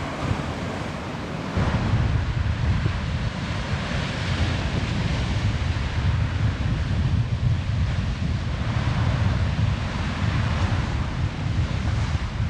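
Wind buffeting the camera microphone: a loud, gusting low rumble under a steady rushing hiss.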